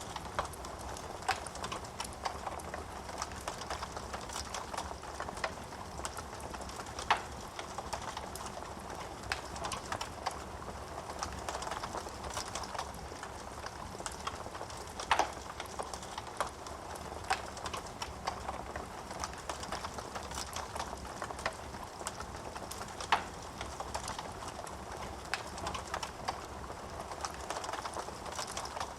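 Wood fire crackling in a fireplace: a soft steady hiss with frequent small pops and clicks, and a few louder snaps spaced several seconds apart.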